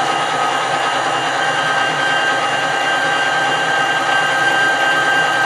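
Metal lathe running steadily with an even machine whine, taking a fine internal boring cut at slow feed to skim about three thou off the inside of a bore.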